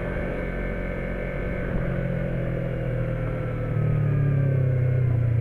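Yamaha MT-03 motorcycle engine running while riding, heard from the rider's position: its note slowly falls as the bike eases off, then grows louder about two thirds of the way in.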